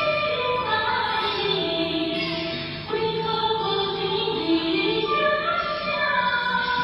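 Ensemble of dizi, Chinese bamboo flutes, playing several held, overlapping melodic lines, with some notes sliding in pitch.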